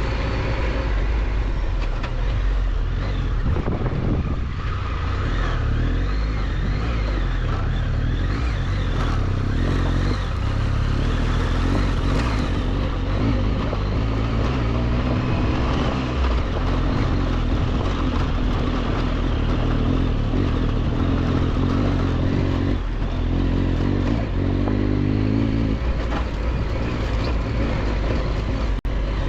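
Triumph Tiger 1200's three-cylinder engine running as the motorcycle rides a dirt road, its pitch rising and falling with the throttle, under a steady rush of wind and road noise.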